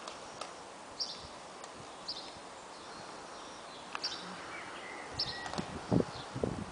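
A bird giving a short high call over and over, about once a second, against steady outdoor background noise. A few louder dull thumps come near the end.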